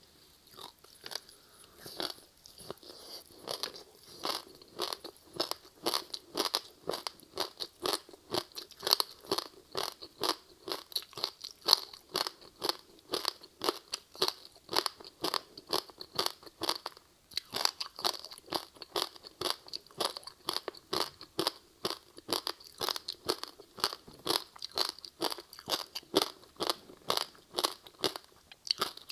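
Close-miked crunching and chewing of a crispy seaweed-wrapped rice snack, a steady run of sharp crunches about two to three a second.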